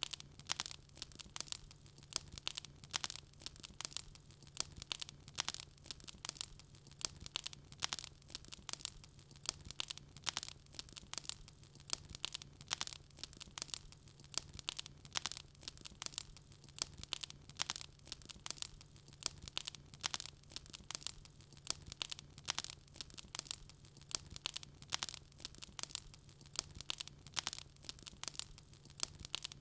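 Wood fire crackling: irregular sharp pops and snaps, several a second, over a faint steady low hum.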